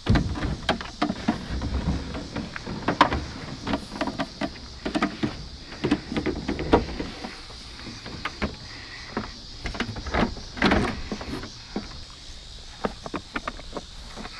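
Irregular knocks, bumps and rattles of salvaged junk being handled and moved, loudest in the first seven seconds and again about ten to eleven seconds in.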